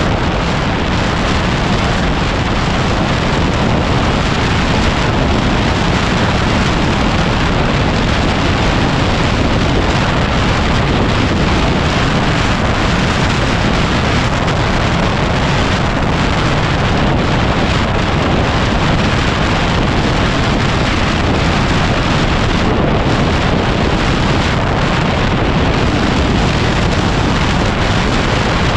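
Heavy, steady wind noise buffeting the microphone of a Yamaha WR250R motorcycle under way.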